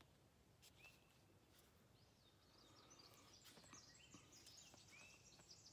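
Near silence with faint birdsong: scattered short chirps and whistled calls, more of them from about halfway through, with a few soft taps.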